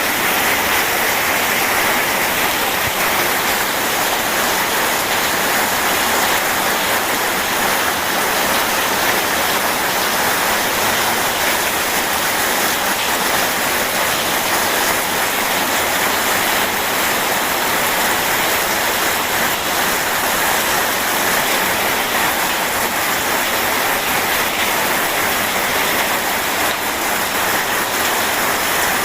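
Steady heavy rain mixed with rushing river water, an even, continuous hiss with no thunder.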